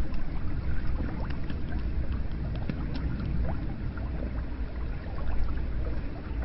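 Hot spring water running and splashing steadily into a bath, with many small droplet plinks over a low, continuous gush.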